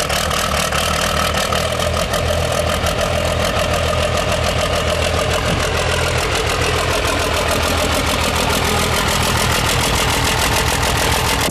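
Diesel truck engine idling steadily, with a rapid, even firing clatter.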